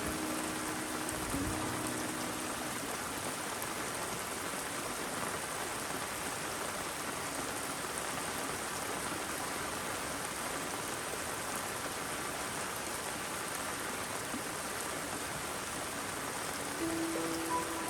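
Steady rain and running rainwater, an even hiss. A few soft held tones come in during the first couple of seconds and again near the end.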